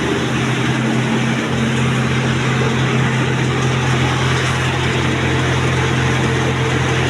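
Tractor-powered sewer suction machine running steadily under load, its engine and suction pump giving a constant low hum and rushing noise while drawing up water.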